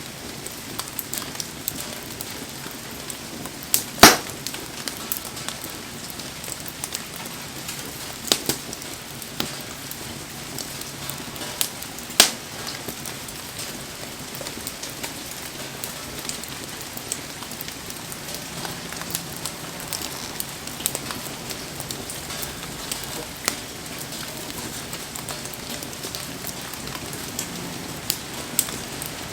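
Wood bonfire crackling, with scattered sharp pops, the loudest about four seconds in and about twelve seconds in, over a steady hiss of falling rain.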